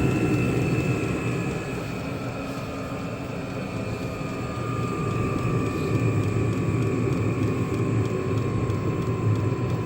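Vevor 5 kW Chinese diesel heater running, its blower whine slowly falling in pitch as it is turned down from full power to the lowest setting, over a steady low combustion rumble.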